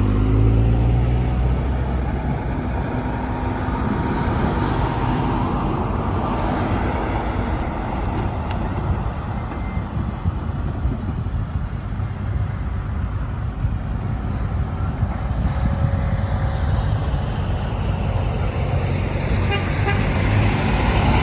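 Semi-trucks passing on a highway. A diesel engine pulls with rising pitch at the start, then there is a steady rush of tyre and traffic noise, which builds again near the end as another vehicle comes close.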